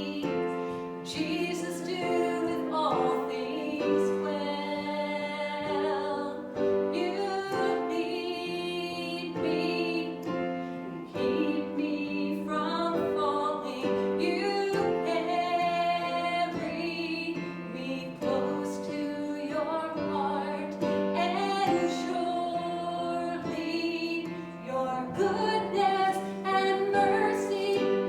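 Worship music: voices singing a hymn or worship song over sustained instrumental accompaniment.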